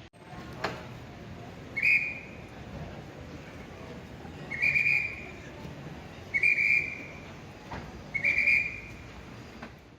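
Four short, steady, shrill blasts on a whistle, spaced about two seconds apart, over a low background hum, with a couple of sharp clicks in between.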